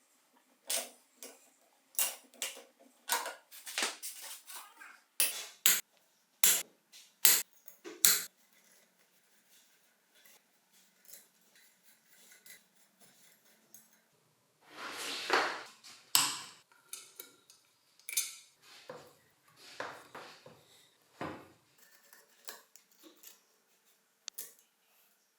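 Small metal bicycle pedal parts and hand tools clicking and clinking as the pedal is worked on by hand, with a rasp about a second long just past the middle.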